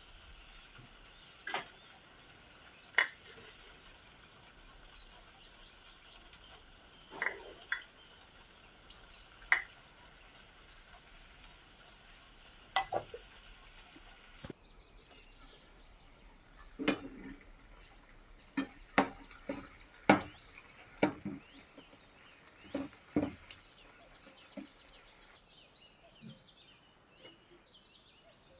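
Kitchen handling sounds while cooking: scattered clinks and knocks of dishes and utensils. They are sparse at first and come more often in the second half.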